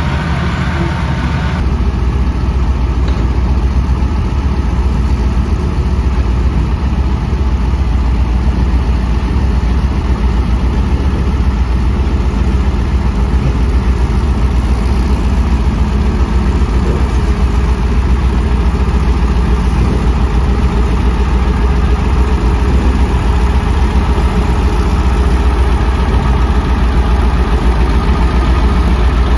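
Heavy construction machinery's diesel engine running steadily, a deep, even rumble; some higher sound drops away about a second and a half in.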